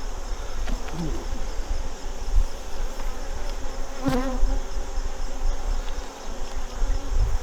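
Honeybees buzzing around an opened hive, a steady hum of many bees, with one brief knock about four seconds in.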